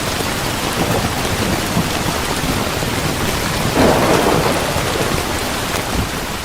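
Steady rain hissing, with a burst of thunder about four seconds in that swells for about a second and then fades back into the rain.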